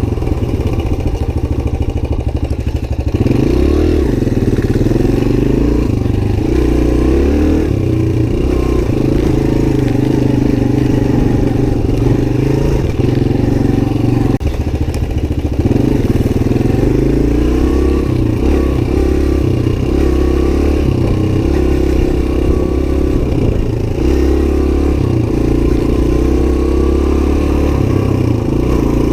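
Suzuki DR-Z125's single-cylinder four-stroke engine running under way, its engine speed rising and falling in steps with the throttle.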